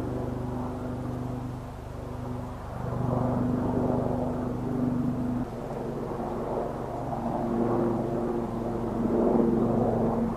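A steady engine drone: a low hum with evenly spaced overtones, shifting slightly in pitch and strength about halfway through.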